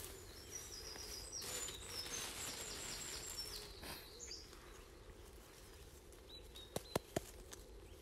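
A small songbird singing high, quick phrases through the first half, over a soft rustle of grass being handled. Three sharp clicks close together about seven seconds in.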